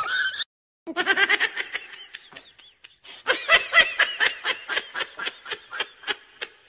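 A person laughing in quick, rhythmic pulses, about five a second, in two long runs with a short break between. At the very start, the tail of a cat's meow cuts off.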